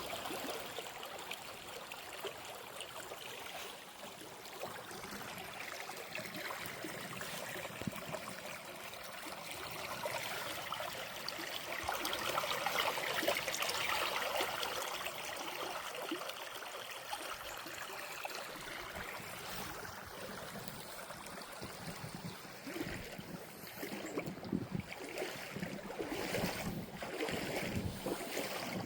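Running water, a steady rushing like a stream, louder around the middle and more uneven over the last few seconds.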